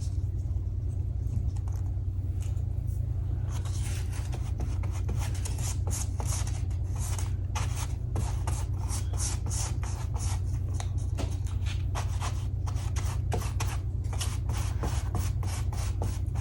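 Torn gel-print paper rustling and scraping in short, crisp bursts as pieces are handled and worked into a collage, coming thick and fast from about four seconds in. A steady low hum runs underneath.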